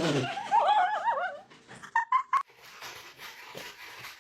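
A pet animal calling: a wavering, warbling call followed by three short high chirps about two seconds in.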